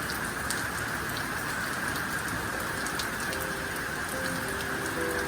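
Heavy rain pouring down steadily, with individual drops ticking through the hiss.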